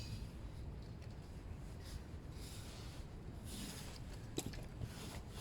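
Faint rustling and rubbing of material being handled, with soft scrapes about two and a half and three and a half seconds in and one small sharp click a little after four seconds.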